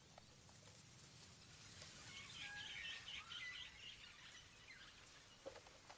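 Faint jungle ambience: a cluster of birds chirping for about two seconds in the middle over a low background hiss, with a soft tap near the end.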